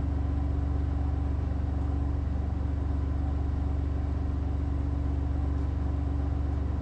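Vehicle engine running steadily at low revs, with no revving or change in pitch.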